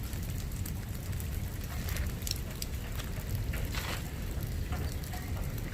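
Light rain falling, with scattered drips and splats over a steady low rumble.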